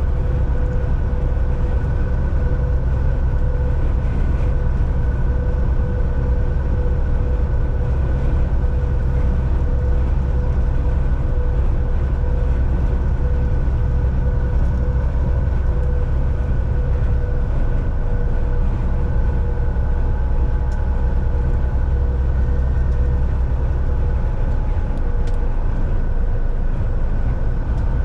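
Volvo VNL 760 semi truck cruising on the highway, heard from inside the cab: a steady low drone from the diesel engine and drivetrain, with road noise and a constant hum over it.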